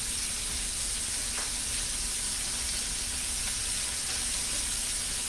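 Food sizzling steadily in a hot grill pan coated with olive oil spray.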